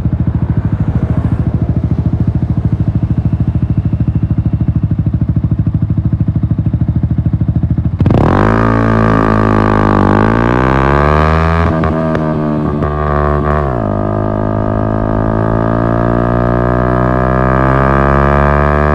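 Yamaha MT-125's single-cylinder engine through an Akrapovic exhaust: an even idle for about eight seconds, then it revs up sharply as the bike pulls away. The pitch climbs, falls back at gear changes about four and six seconds later, and climbs steadily again near the end.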